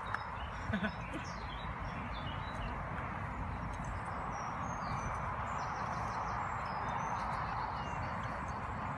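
Small birds chirping over a steady outdoor background rush.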